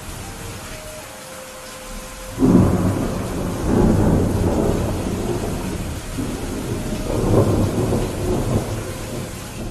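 Steady rain with thunder. A loud low rumble breaks in suddenly about two and a half seconds in, then rolls on in swells.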